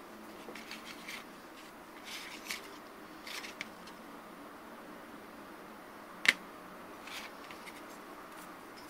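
Light scraping and rubbing handling sounds with a few small ticks, and one sharp click about six seconds in.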